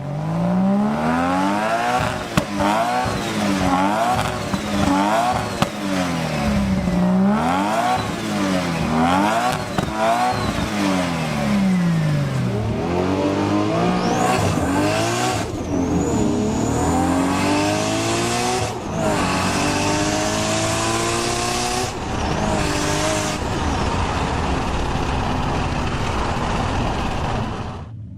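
Modified Nissan Skyline R34 GT-R's twin-turbo straight-six swinging down and up in pitch about every two seconds. From about halfway it climbs in pitch again and again, each climb cut off by a drop, as the car accelerates hard through the gears.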